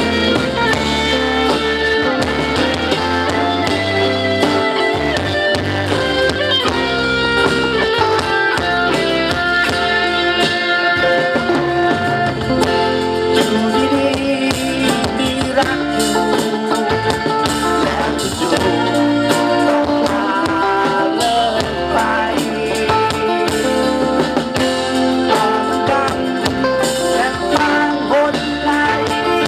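Live band music with electric guitar and bass playing a steady instrumental passage.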